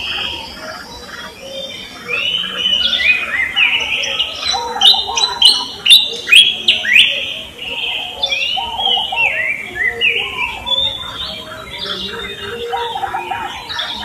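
Several birds chirping and singing together in a busy chorus, with a run of loud, sharp, falling chirps about five to seven seconds in.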